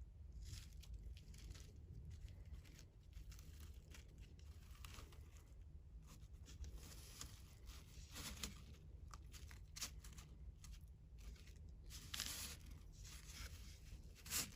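Loose bird seed crunching and rustling as a cardboard toilet-paper roll coated in sunflower seed butter is pressed and rolled through it: a faint, irregular run of crackles.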